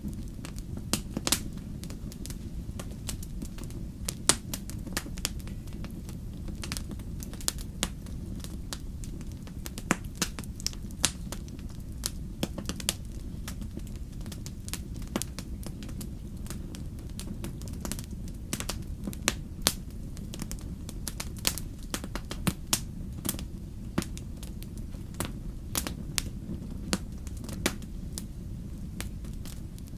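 Wood campfire crackling: irregular sharp pops and snaps, many a second at times, over a steady low rumble of the burning fire.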